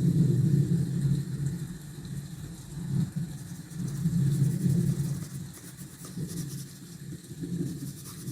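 Low rumble that swells and fades several times, with faint hiss and a few light ticks above it.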